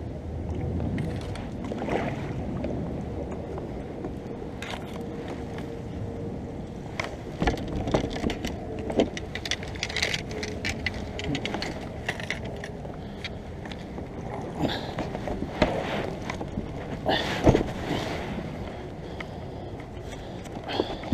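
Kayak being paddled on a pond, with irregular splashes and knocks.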